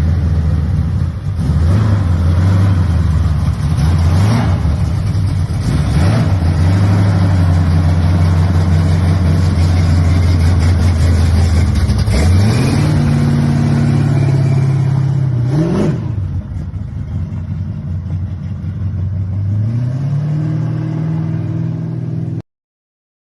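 The 383 cubic-inch stroker V8 of a 1981 Chevy C10 is running loudly and is revved briefly a few times. About twelve seconds in, the engine note climbs and holds higher, as when the truck pulls away. It then eases off and quietens, climbs again near the end, and cuts off suddenly.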